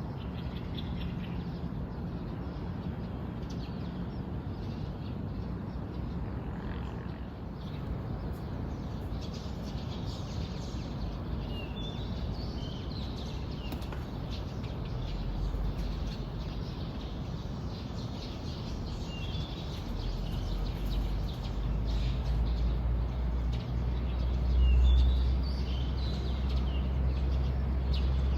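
Morning birdsong: small birds chirping in short, scattered high phrases, over a steady low rumble that grows louder in the second half.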